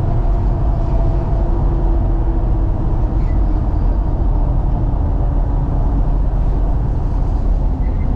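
Inside the cabin of a 2018 BMW M3 Competition on track: its S55 twin-turbo straight-six running under load with a fairly steady note, over heavy low road and tyre rumble.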